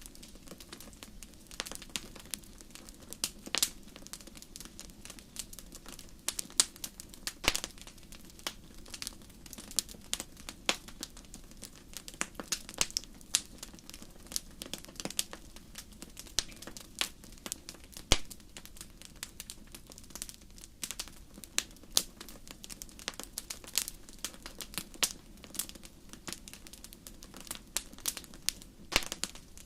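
Wood fire crackling in a fireplace: irregular sharp pops and snaps, several a second, over a low steady background of the burning fire.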